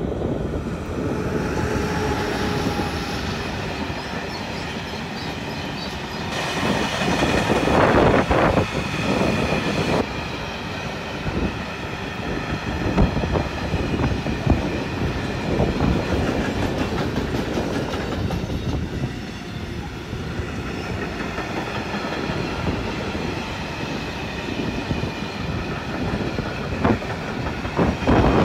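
Electric freight train passing close by: an SBB Cargo locomotive followed by a long string of open goods wagons. The wheels clatter over the rail joints over a steady rolling rumble, with a faint high ringing from the wheels, louder for a few seconds around the middle.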